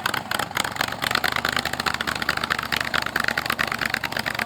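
Car engine running, with a rapid, uneven pulsing from the exhaust.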